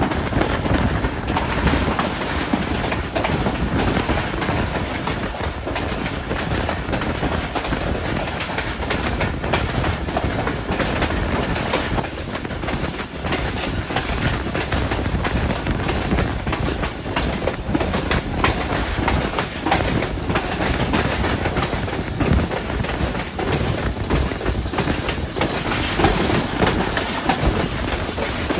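Hazara Express passenger train running on the track: a continuous rumble with the wheels clacking over the rail joints.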